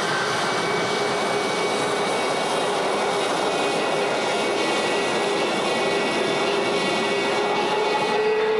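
A steady engine drone with several high, steady whining tones over a dense rushing noise, holding an even level throughout.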